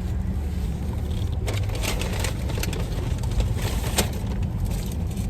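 Car running, heard from inside the cabin as a steady low rumble, with a few light clicks and knocks between about a second and a half and four seconds in.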